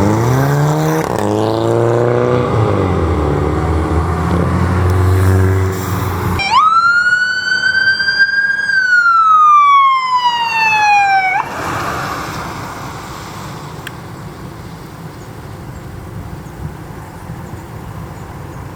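Emergency vehicle responding with its siren on: wavering siren tones over engine noise, then a loud siren wail that rises and falls once and cuts off abruptly, leaving the vehicle's engine and road noise fading away.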